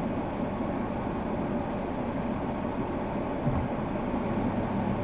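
Steady running noise of a car on the road: an even low rumble and hiss with no impacts.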